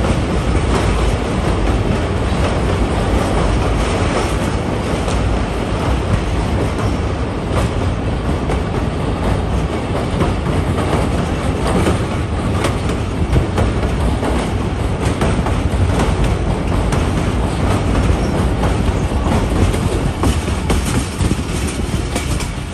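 Passenger train running over a railway bridge: a steady loud rumble of wheels on rails, with the wheels clicking over the rail joints.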